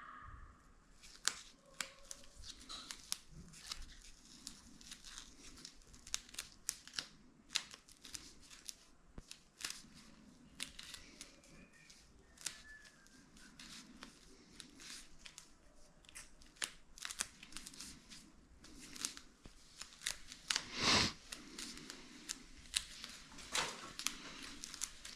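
Scissors snipping through sealing-strip material in short, irregular cuts, with the strip rustling as it is handled. There is a louder rustle near the end.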